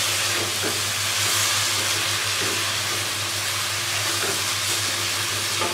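Sliced potatoes sizzling steadily in hot oil and spice masala in a pan as a spatula stirs them through.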